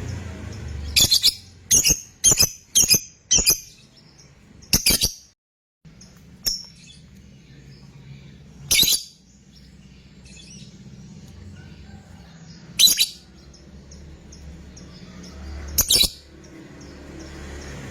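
A 'fighter' lovebird giving sharp, shrill single calls: a quick run of five about a second in, a longer call near five seconds, then single calls every three or four seconds.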